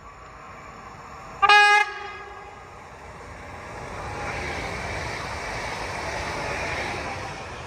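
A train gives one short horn blast about a second and a half in, then passes with a rumble of wheels on rails that builds, holds and fades near the end.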